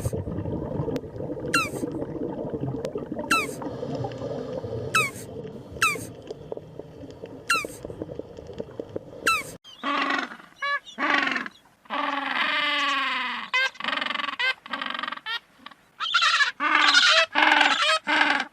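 Animal calls in two parts. First, a short high chirp that falls in pitch, repeated about once a second over a low rumbling haze. Then, after about nine and a half seconds, a run of separate squealing calls of varied length, some sliding downward.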